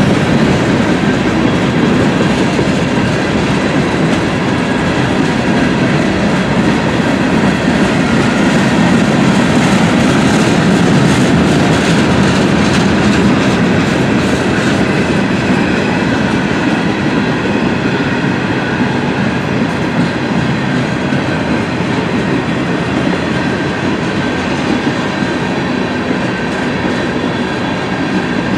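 Freight train of boxcars, tank cars and covered hoppers rolling past close by: steady rumble and clickety-clack of steel wheels on the rails, growing slightly quieter near the end.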